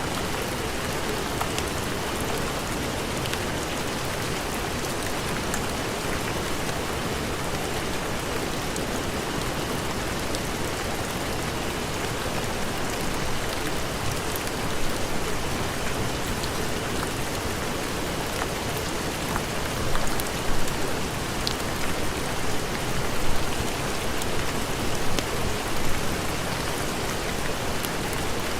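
Steady heavy rain falling in a dense, even hiss, with scattered sharp ticks of drops and a few short louder swells in the second half.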